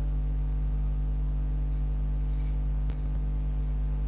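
Steady electrical mains hum, a low buzz with several overtones, with one short click about three seconds in.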